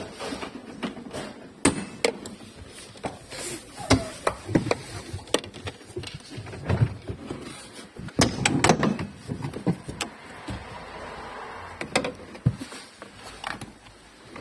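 Irregular clicks, knocks and short scrapes of car interior and sunroof parts being handled and worked on by hand, with the loudest knocks about four seconds in and around eight to nine seconds in.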